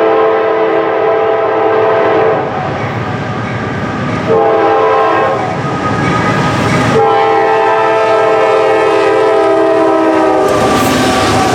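Multi-note air horn of a Norfolk Southern GE AC44C6M diesel locomotive sounding a long blast that ends about two seconds in, then a short blast, then a long blast of about three and a half seconds. This long–short–long run is the end of the standard grade-crossing horn signal. Under the horn runs the steady rumble and wheel clatter of the intermodal train passing.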